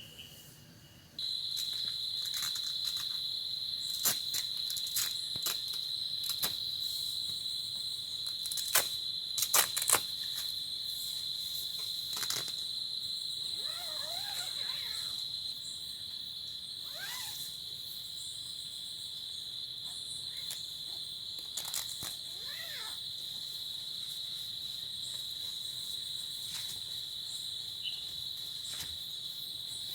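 Insects, likely crickets, trilling in a steady, high, unbroken chorus that comes in suddenly about a second in. It is dotted with a few sharp taps, most of them in the first third.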